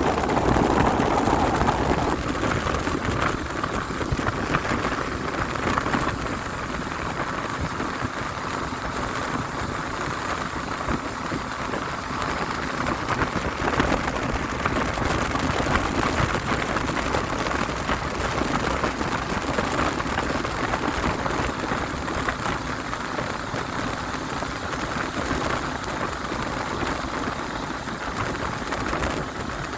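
Speedboat running at speed: a steady rush of engine, water spray off the hull and wind on the microphone.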